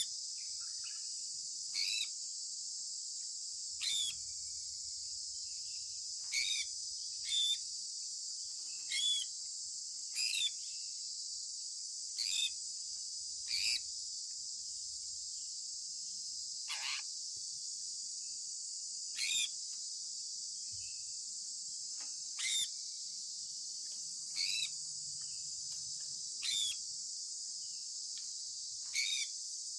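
Sun conure parrot giving short, sharp chirps every couple of seconds, about fourteen in all. Under them runs a steady, high insect drone.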